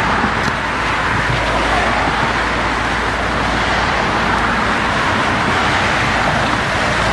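Steady road traffic noise: the tyre hiss and engine hum of vehicles passing on a road, with no single truck standing out.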